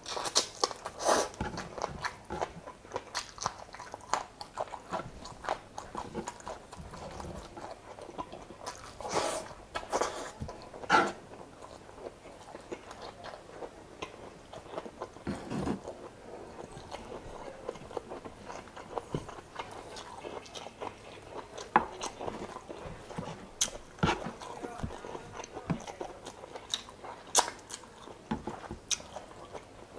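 A person biting and chewing chicken adobo and rice, with irregular sharp mouth clicks and wet chewing sounds.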